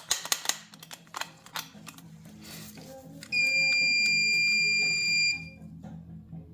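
A single loud, steady electronic beep lasting about two seconds, starting about three seconds in, after a few short clicks while a starter motor is bench-tested on a booster pack that shows a heavy current draw. Faint background music runs underneath.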